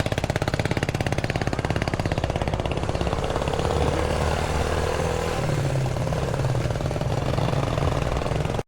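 A vehicle engine idling close by, loud and steady, with a rapid, even exhaust pulse.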